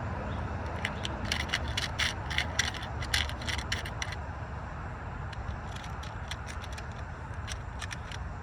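Small crimp connectors clicking and rattling as they are picked through in a plastic assortment box: a quick flurry of clicks for a few seconds, then scattered clicks, over a steady low rumble.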